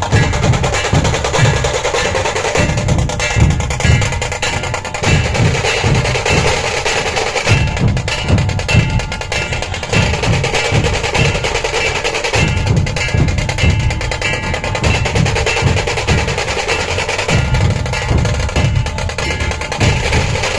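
Dhol-tasha drum ensemble playing: deep dhol strokes beating a fast, steady rhythm under the continuous rapid rattle of tasha drums.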